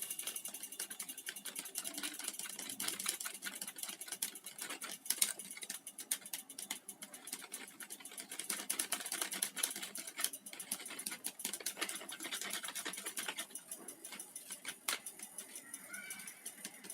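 Eggs being beaten in a bowl with a utensil: fast, continuous clicking and tapping of the utensil against the bowl.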